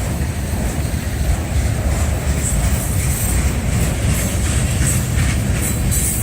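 Freight train rolling past close by: the steady rumble of railcars' wheels on the rail, with a few faint clicks in the second half.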